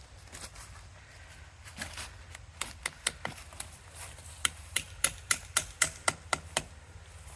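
Hammer tapping a metal spout (spile) into a maple tree's taphole: a few scattered taps, then a quick run of about ten sharp strikes, about four a second.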